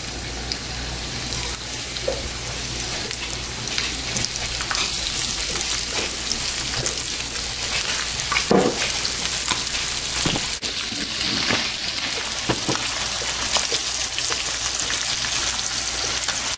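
Batter-coated smelts sizzling and crackling as they fry in hot vegetable oil in a cast iron skillet, the sizzle growing louder as more fish are laid in.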